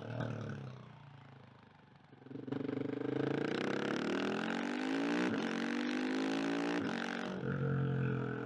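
KTM 690 SMC R's single-cylinder engine: throttle closed briefly and quiet, then opened hard about two seconds in, the pitch climbing as it accelerates and dropping back at gear changes about five and seven seconds in.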